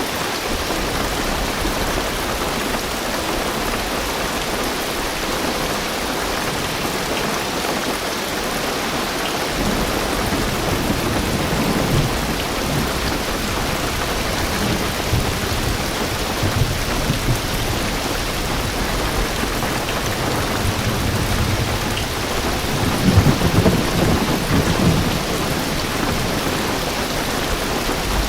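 Heavy rain drumming steadily on a car roof and windows, heard from inside the car. Deep thunder rumbles in about a third of the way through and swells loudest near the end.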